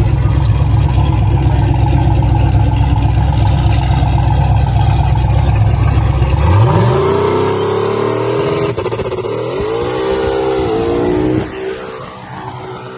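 Car engine running with a loud, low rumble, then revved up about six and a half seconds in and revved several more times, pitch rising and falling, before dropping back near the end.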